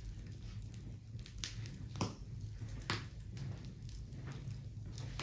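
Small wood fire crackling, with sharp pops about two and three seconds in, over a steady low hum.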